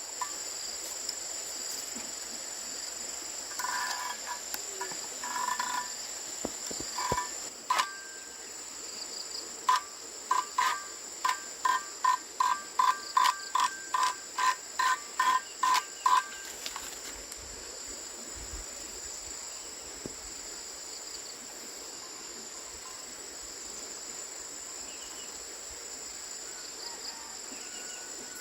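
A steady high-pitched chorus of crickets or other insects, with a run of sharp ringing knocks on metal from about 4 s to 17 s, about two a second in the middle, consistent with hammering on steel plough parts.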